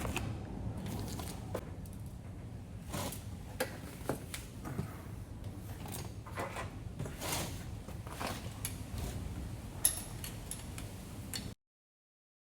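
Hand tools and metal parts being handled while working on a dirt bike's carburetor: scattered clicks, light knocks and short scrapes over a low hum. The sound cuts off to silence near the end.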